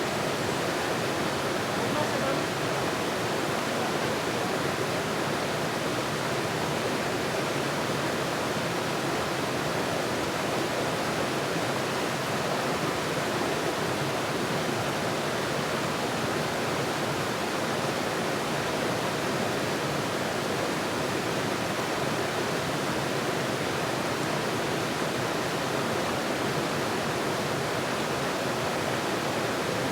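Steady rushing water, an even, unchanging roar like a waterfall or fast stream.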